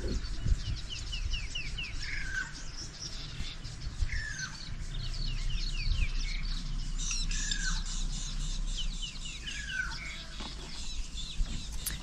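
Several wild birds calling. One repeats a short down-slurred whistle about every two seconds, with runs of quick high chirps in between, over a low steady rumble.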